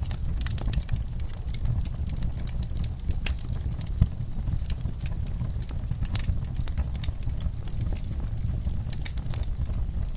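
Wood fire burning in a fireplace, crackling with many irregular sharp snaps over a steady low rumble, with one louder pop about four seconds in.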